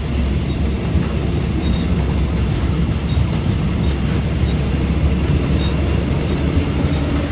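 Passenger train running on the line, a steady rumble and rattle heard from aboard the carriage.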